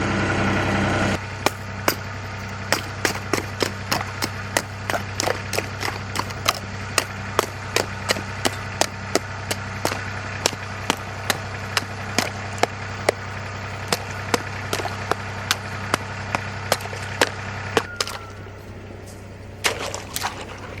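Farm vehicle engine idling with a steady low hum while sharp crunches sound about twice a second over it. The engine hum drops away near the end.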